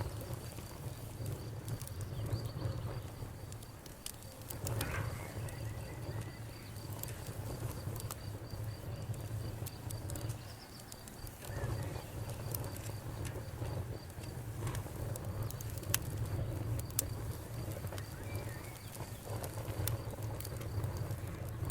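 Wood fire burning in a fireplace: a steady low rumble of the flames with irregular sharp crackles and pops from the burning logs. A faint high-pitched pulsing tone sits in the background for much of the time and fades out about two-thirds of the way through.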